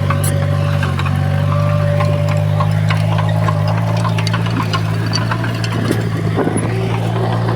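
Heavy earthmoving machine's diesel engine running at a steady speed, with scattered metallic clicks and clanks over the drone.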